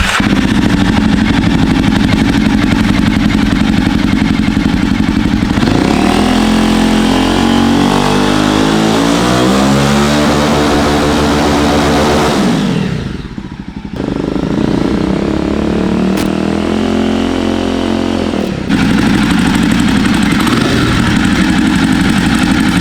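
Jawa Perak's single-cylinder engine running through its twin exhausts, echoing in a showroom. It idles, then is revved in a long rise from about six seconds in, drops back near thirteen seconds, and settles to a steady run again. The exhaust note has a little heaviness to it.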